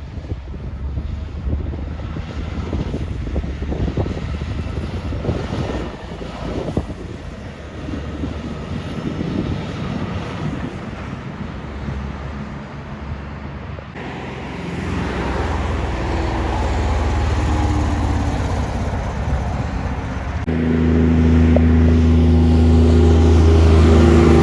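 Wind buffeting the microphone over a low rumble of traffic. About fourteen seconds in, a Kenworth truck's diesel engine comes in, and from about twenty seconds it is louder, a steady low engine drone.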